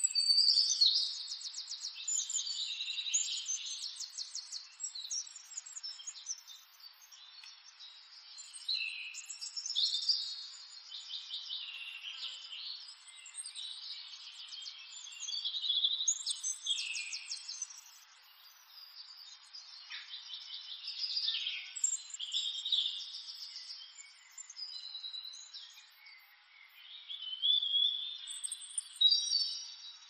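Songbirds chirping and singing, with fast trills and short rising and falling whistles that come and go in bursts.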